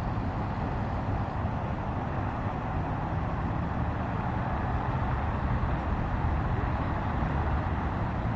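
Steady low rumble and hiss of a moving vehicle, unbroken throughout.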